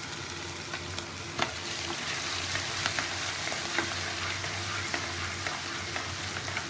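Ginger and garlic sizzling in hot oil in a pan, stirred with a spatula that scrapes and clicks against the pan, with one louder knock about a second and a half in.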